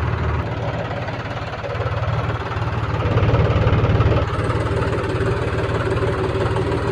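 Tractor diesel engine running under a loaded trailer, revving up about three seconds in and easing back a second later.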